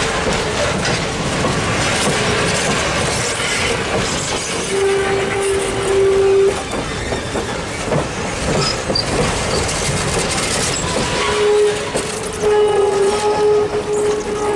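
Passenger cars of an excursion train rolling past at close range, their wheels clattering over the rail joints of a wooden trestle. A long, steady note sounds twice over the clatter: briefly about a third of the way in, then again from about three-quarters in.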